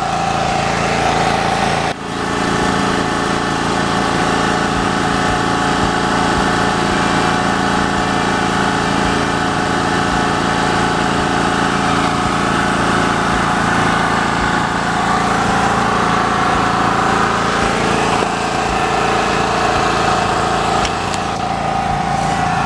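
A small engine or motor running steadily, an even hum of several held tones, with a brief dip about two seconds in.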